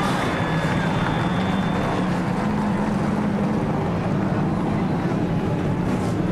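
A field of NASCAR stock-car V8 engines running together just after being started, a steady low rumble.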